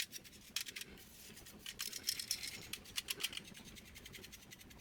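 Small clicks and light scratching of plastic and metal parts being handled and fitted on a laser printer's fuser unit while the fuser film is replaced. The clicks come in scattered clusters.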